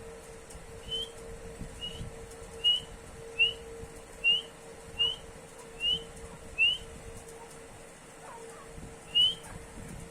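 Francolin (teetar) calling: eight short, loud, rising whistled notes at a steady pace of a little over one a second, then one more after a pause near the end.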